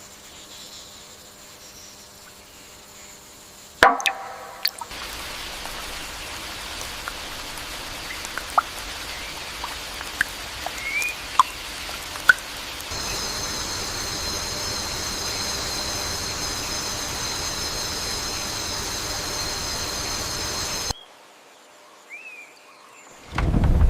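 Steady rain hiss with a few short chirps and clicks, after a sharp knock about four seconds in. A high steady buzz joins about halfway, then the hiss and buzz cut off together, and a low rumble of thunder starts near the end.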